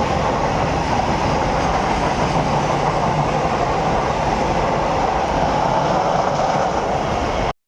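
A train rolling past, a steady loud rumble and rattle of wheels on the rails that cuts off abruptly near the end.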